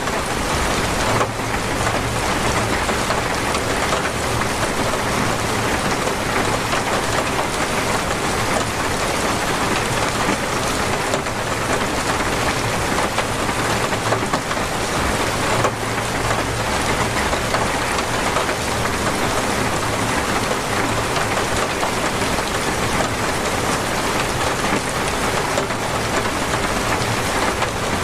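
Heavy, torrential rain falling and pattering on surfaces in a dense, steady hiss.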